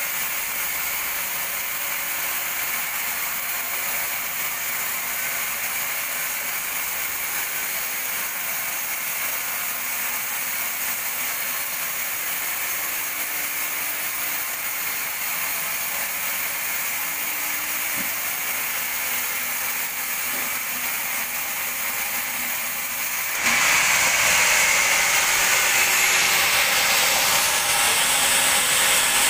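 Sawmill bandsaw running, sawing a teak log into thick boards, with a steady hissing machine noise. About 23 seconds in it turns suddenly louder and brighter.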